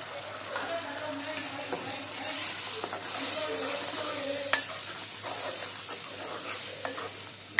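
Steel spoon stirring freshly added ground tomato into onion-garlic masala frying in hot oil: a steady sizzle with scraping, louder a couple of seconds in, and a few sharp clicks of the spoon against the pot.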